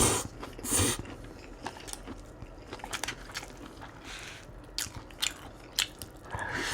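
Close-miked eating: a loud bite at the start and another just under a second in, then chewing with scattered crunches and clicks.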